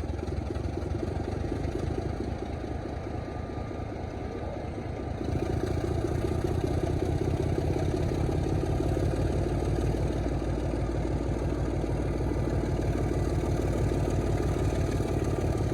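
Diesel locomotive engine running steadily, growing louder about five seconds in and then holding.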